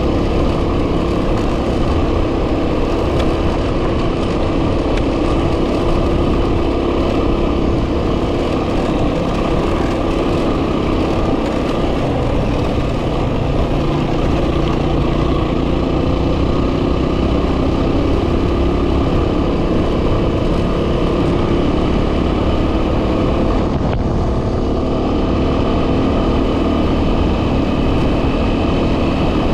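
Heavy wind noise buffeting the microphone over a 2010 Yamaha WR250R's single-cylinder engine running steadily at riding speed, its pitch shifting a little a few times.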